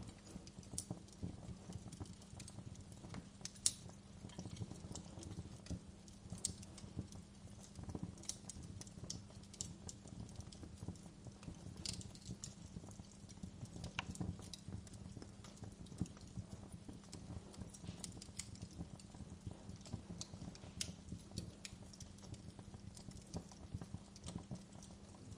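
Fireplace fire crackling: irregular sharp pops and snaps of varying loudness over a steady low hum.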